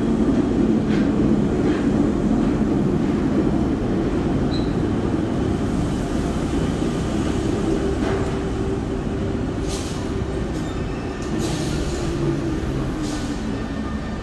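Paris RER B MI79/MI84 electric train pulling into an underground station and slowing to a stop: a steady rumble with a droning motor tone that sinks slightly in pitch as it slows, and a few short hisses in the last few seconds.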